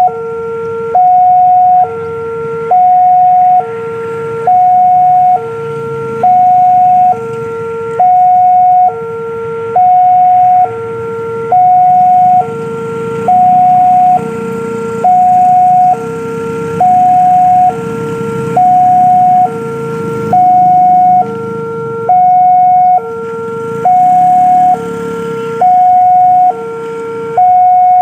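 Railway level-crossing warning alarm sounding loudly, alternating steadily between a higher and a lower tone, each held just under a second, which signals that a train is approaching. A low rumble runs underneath.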